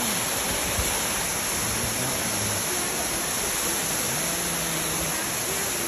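Waterfall rushing: the steady, even noise of falling water.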